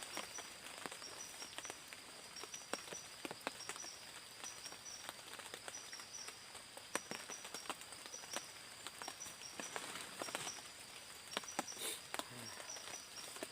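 Tropical forest ambience at dusk: a steady high-pitched insect drone with a faint repeating pulse, and scattered soft clicks and taps throughout.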